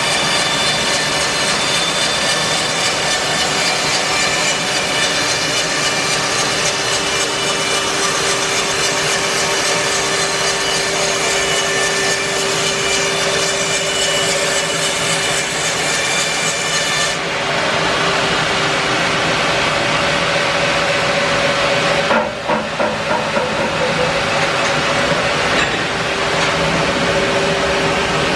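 Band sawmill sawing a larch log, a steady hiss and whine of the blade running through the wood. About two-thirds of the way through the high hiss drops away, and a few seconds later comes a short rattle of knocks while the mill keeps running.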